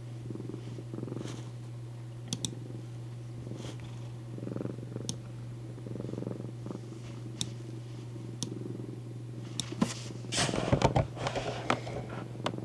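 Domestic cat purring on a lap in soft pulses about once a second, with scattered small clicks and a louder rustling burst near the end.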